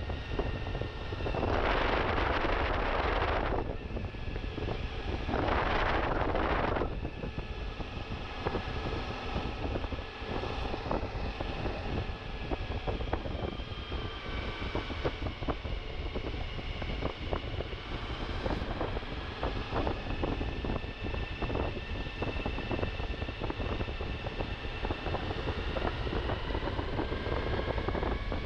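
Suzuki V-Strom motorcycle engine running while riding off road, its pitch rising and falling slowly with the throttle. Wind rushes over the microphone, with two loud gusts in the first few seconds.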